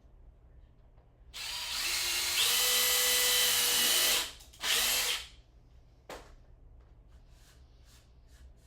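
An electric power tool's motor runs twice: it spins up with a rising whine and runs for about three seconds, then gives a second short burst. A single click follows near the end.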